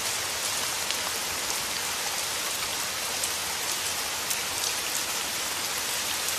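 Steady rain falling, with occasional sharper ticks of single drops striking close by.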